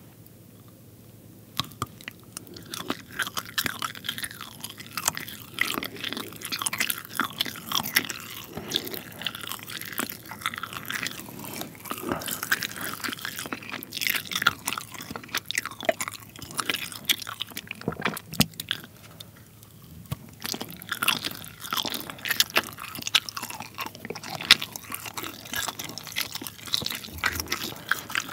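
Close-miked chewing of rainbow-coloured pull-apart string cheese: a bite, then many small wet clicks and mouth sounds. The chewing starts about a second and a half in, pauses briefly about two-thirds of the way through, then goes on.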